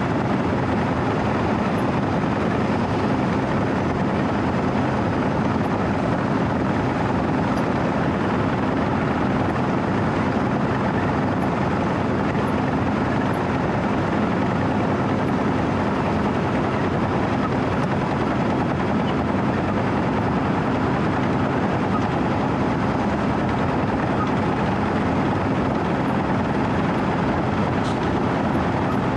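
Wirtgen W 120 CFi cold milling machine's diesel engine running steadily as the machine travels slowly, a constant loud drone with a steady low hum.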